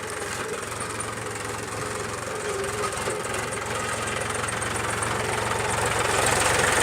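Mahindra tractor's diesel engine running steadily, growing louder near the end.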